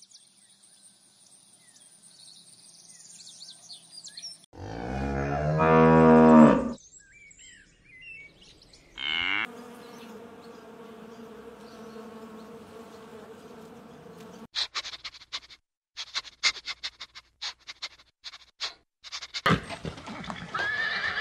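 A cow mooing once, loud and about two seconds long, about five seconds in, after faint high chirping. A steady buzz follows, like a honeybee's wings, then a run of sharp clicks. A horse begins to whinny near the end.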